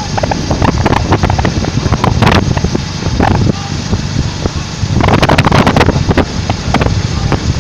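Heavy wind rumbling and buffeting on the microphone over motorcycles running along the road, with gusts coming and going.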